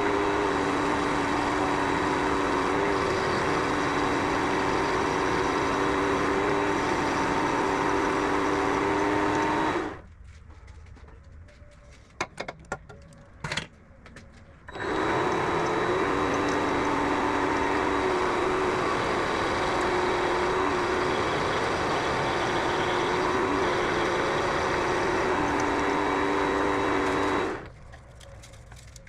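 Vevor MX400 mini lathe running while turning down a piece of stock, with a steady motor hum and a high whine. It stops about ten seconds in, a few light clicks follow, then it starts again about five seconds later and runs until it stops shortly before the end.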